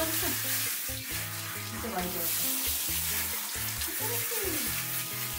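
Water spraying from a handheld shower head, a continuous hiss, with background music playing.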